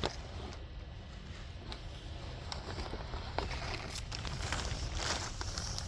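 Wind rumbling on a handheld phone's microphone outdoors, with scattered light clicks and rustles of footsteps and handling.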